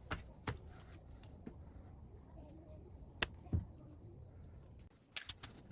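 Irregular sharp clicks and taps, with a quick cluster of them near the end, over a faint steady high tone.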